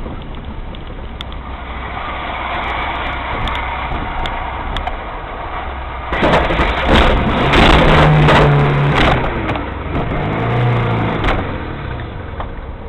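Car engine and road noise, steady at first. About six seconds in it turns into a louder, rougher stretch of several seconds with a few sharp cracks in it, then settles back.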